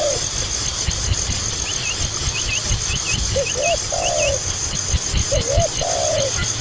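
A dove cooing in repeated phrases, each a couple of short coos followed by a longer one, over a low rumble. A few quick high chirps from a small bird come in the first half.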